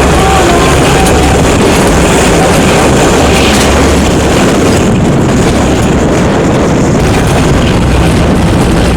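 Narrow-gauge train running at a steady pace, a low rumble under heavy wind buffeting the microphone.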